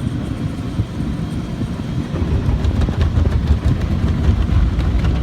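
Conveyor car wash equipment working on the car, heard from inside the car's cabin: a low rumble of rotating brushes and water against the body with irregular slaps, growing louder about two seconds in as the brushes start scrubbing.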